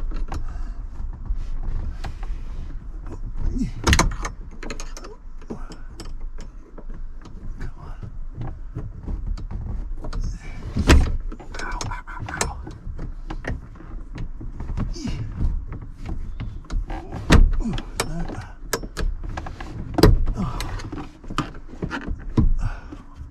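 Irregular clicks, rattles and knocks of tools and small metal parts being handled on the car, with a few louder knocks.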